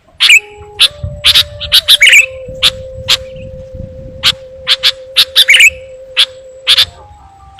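Sooty-headed bulbul (kutilang) calls used as a bird-trapping lure: many short, sharp chirps in quick irregular succession. A steady low tone runs underneath from about one second in until near the end.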